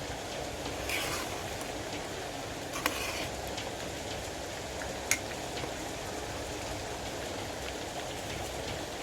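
Biryani rice and chicken masala water boiling in the pot on the stove, a steady bubbling noise, with a few faint clicks.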